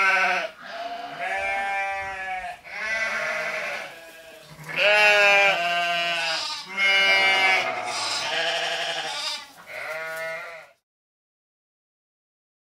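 Sheep bleating: a run of about seven drawn-out, wavering baas, one after another, stopping about two seconds before the end.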